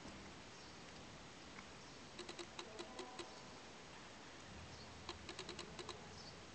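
Two short runs of quick, light clicks, seven or eight in each, about two seconds and five seconds in, over faint background noise.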